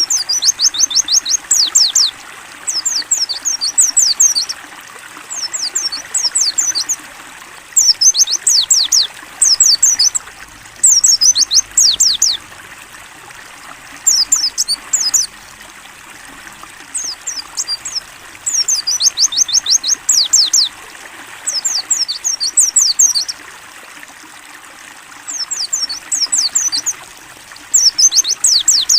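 White-eye (pleci) singing in short bursts of quick, high, falling notes, about a dozen bursts, over a steady background of running water.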